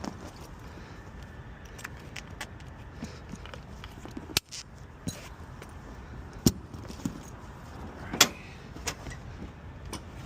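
Small metal objects being handled: scattered clinks and knocks over a steady low background rumble, with a few sharper knocks about four, six and a half and eight seconds in.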